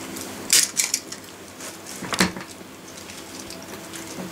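Plastic being chewed: a few sharp cracks and clicks, the loudest about half a second in and again about two seconds in.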